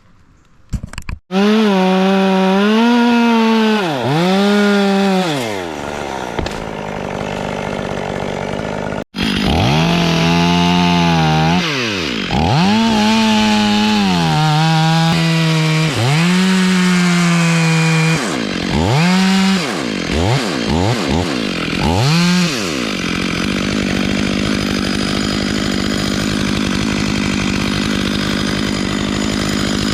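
Chainsaw running at high revs and cutting wood, its engine pitch dropping and picking up again many times as the throttle is worked. It cuts off abruptly for an instant about nine seconds in, then runs steadier for the last several seconds.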